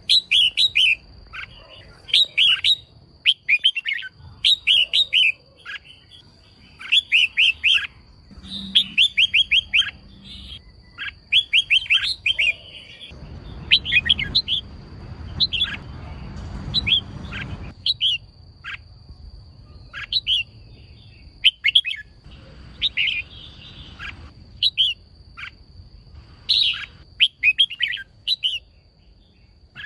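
Female red-whiskered bulbul calling in short clusters of quick chattering notes, a burst every second or two. This is the call used to excite male bulbuls into singing.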